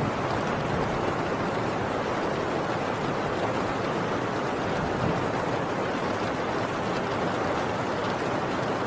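Heavy rain on a tin roof, a steady downpour.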